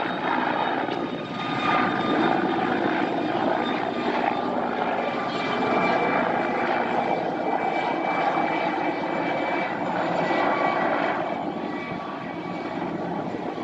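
Military turbine aircraft running close by: a dense, steady engine noise with a thin high whine laid over it.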